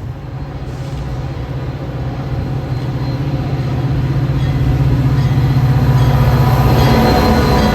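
Diesel-powered train running by with a heavy, steady rumble, growing louder about halfway through and loudest near the end as it comes closest.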